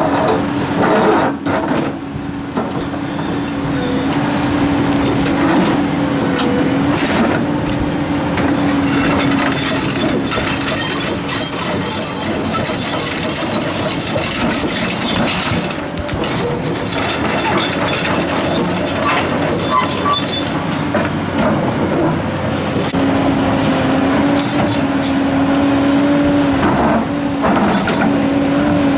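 Large Komatsu hydraulic excavator working: its engine and hydraulics run with a steady whine that wavers in pitch, fades midway and comes back strong near the end. Scattered knocks and scrapes of rock being handled sound over it.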